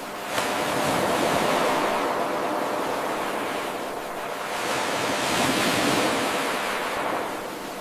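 Ocean waves washing in: a steady rush of surf that swells, eases around the middle, and swells again. About half a second in the level jumps suddenly where the 8-second wave loop restarts.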